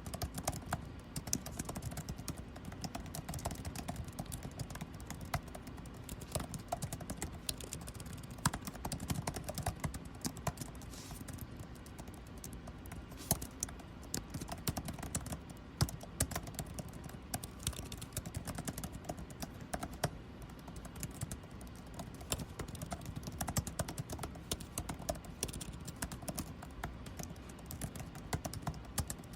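Continuous typing on a computer keyboard, fast irregular key clicks, over the steady hum of air conditioning.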